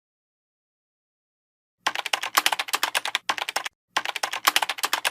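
Rapid keyboard typing clicks in quick runs with short pauses, starting about two seconds in.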